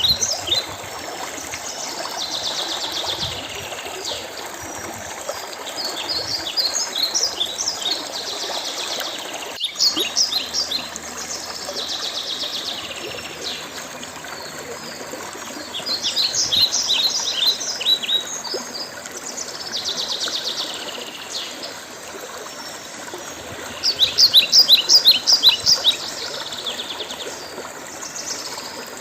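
Songbirds singing: repeated phrases of rapid, high chirping notes every few seconds, loudest for about two seconds near the end, over a steady background hiss. A single sharp click about ten seconds in.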